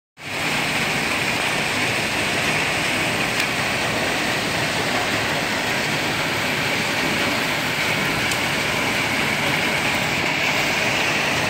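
Heavy rain mixed with hail pouring down, a dense steady hiss that does not let up.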